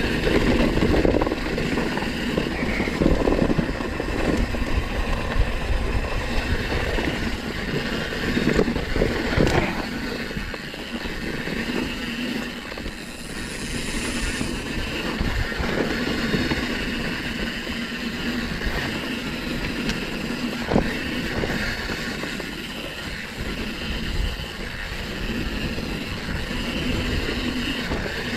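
Downhill mountain bike running down a rough dirt trail, heard from a chest-mounted action camera: continuous tyre noise with irregular clatter and knocks from the chain, frame and Fox suspension over rocks and roots, one sharp knock about two-thirds through.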